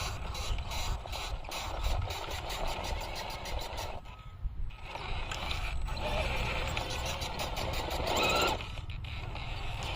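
Cross RC JT-6 radio-controlled truck crawling, its drivetrain creaking and squeaking under load as it climbs, with a rapid clicking running through it. The sound drops away briefly about four seconds in, then comes back louder.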